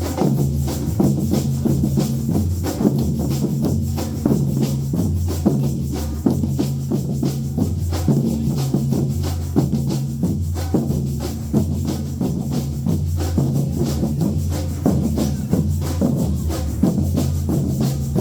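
Band music: a drum kit keeps a steady beat with busy cymbal or hi-hat strokes over a bass line that steps between held low notes.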